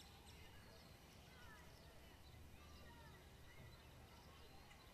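Near silence: faint outdoor background with a few distant bird chirps now and then.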